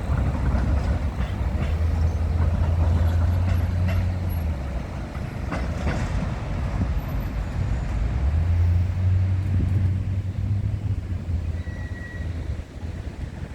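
A tram running through a street junction among road traffic: a low hum that swells twice, with a few clicks and faint squeaks from the wheels on the rails about six seconds in.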